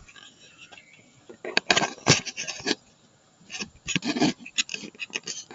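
Footsteps and rustling while walking over ground cover, an irregular run of crunches and scuffs that starts about a second and a half in.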